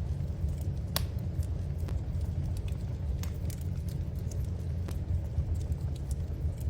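Wood fire burning in a fireplace: a steady low rumble with irregular sharp crackles and pops, one louder pop about a second in.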